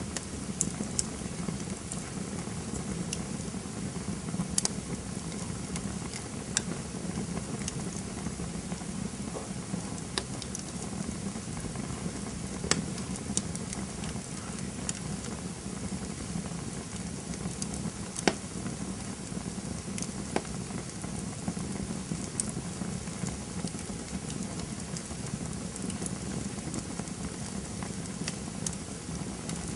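Campfire burning with a steady low rumble and scattered sharp crackles and pops from the burning wood, a few of them louder than the rest.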